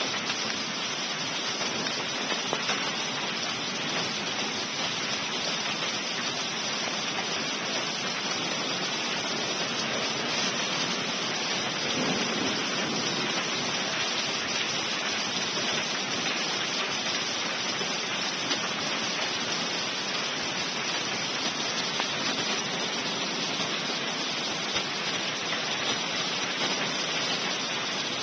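Heavy thunderstorm rain pouring down, a dense, even hiss that holds steady throughout.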